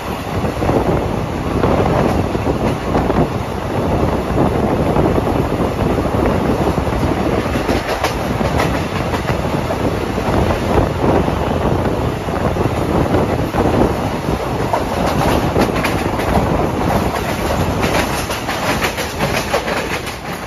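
Passenger train coach running along the track: a steady rumble of wheels on rail with clickety-clack clicks over rail joints. The clicks come more thickly about eight seconds in and again through the last few seconds.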